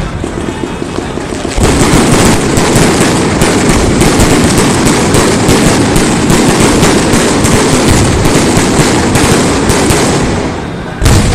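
Fireworks going off in a dense, continuous run of crackling bangs, with a dip and then a heavier burst near the end.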